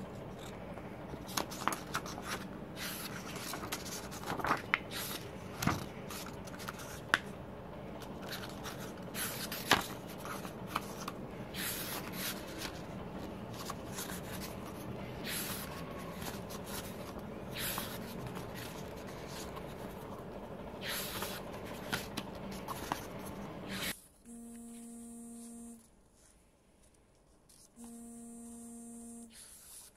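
Rustling and scraping of paper and plastic album packaging, with scattered sharp clicks and swishes as items are handled. Near the end the rustling stops and a steady electric hum switches on and off twice.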